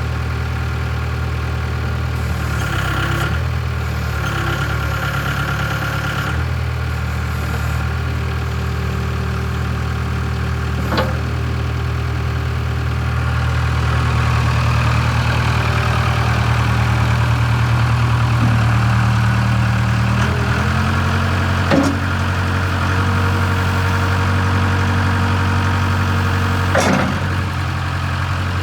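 Case 580K backhoe loader's four-cylinder diesel engine running steadily, its note shifting to a different speed about two-thirds of the way through. Three sharp knocks stand out over it.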